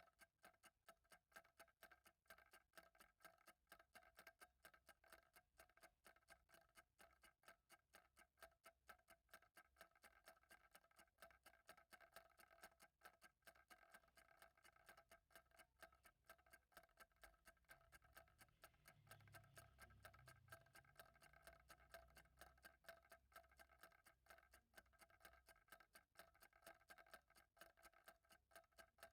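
Faint, steady ticking of a clock, the ticks quick and evenly spaced, with a faint low rumble about two-thirds of the way through.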